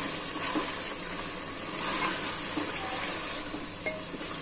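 Chicken pieces frying in oil and masala in an aluminium pot, sizzling steadily as a spatula stirs and scrapes them round.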